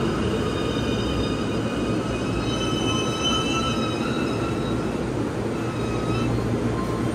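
A JR Nambu Line commuter electric train rumbles steadily as it pulls in along the platform and slows to a stop. From about two and a half seconds in, thin high brake and wheel squeals sound, fading out shortly before the end.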